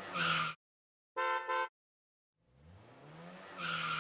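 A motor vehicle engine revving up, cut off about half a second in. A short two-pulse beep like a horn follows, then the engine sound rises again toward the end.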